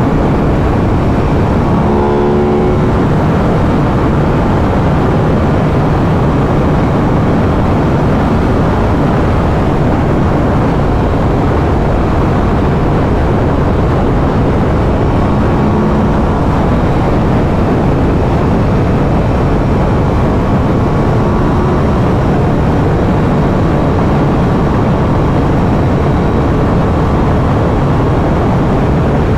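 2023 Aprilia RS 660's parallel-twin engine through its stock exhaust, running steadily at highway cruising speed, with heavy wind rush on the microphone over it.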